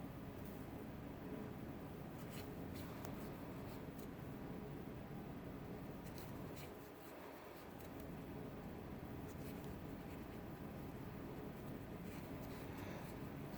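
Faint scratching and light clicks of a crochet hook pulling yarn through single crochet stitches, scattered irregularly over a steady low background hum.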